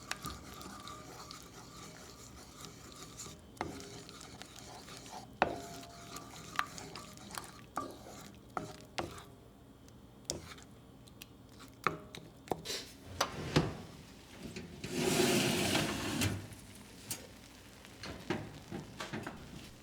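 Kitchen handling sounds: scattered light knocks and clinks of dishes and utensils being moved about, with a louder rubbing or scraping noise lasting about a second and a half roughly three-quarters of the way through.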